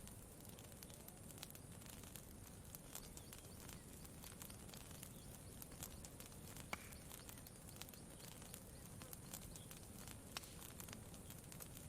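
Campfire crackling quietly, with scattered small pops and one sharper pop a little past halfway, over a faint steady low background.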